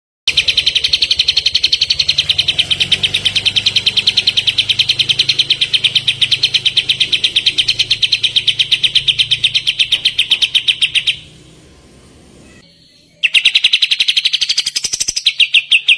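A songbird repeating one sharp note in a fast, even rapid-fire trill, the 'tembakan' (shooting) song used as kapas tembak masteran. It stops for about two seconds near the end, then starts again.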